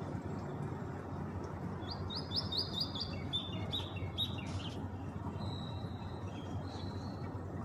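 A small bird chirping: a quick run of about eight short, sharp chirps starting about two seconds in, then a single longer high call a little past the middle, over a steady low background noise.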